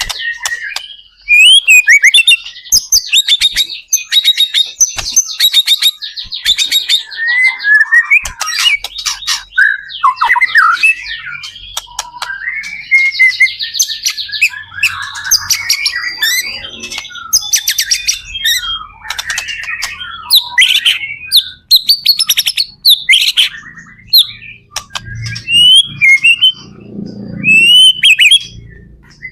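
White-rumped shama in full song: loud, fast whistled phrases mixed with rapid trills and sharp chips, one phrase after another without a break.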